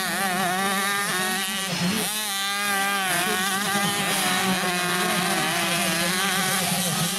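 65cc two-stroke motocross bikes racing, engines revving up and down, with a sharp break and fresh climb in pitch about two seconds in as a bike shifts gear.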